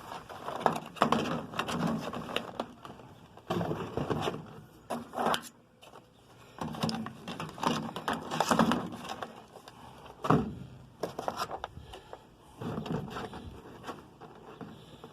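Small die-cast toy monster trucks being handled and moved around: irregular clattering, rustling and sharp clicks in bursts, with short pauses between.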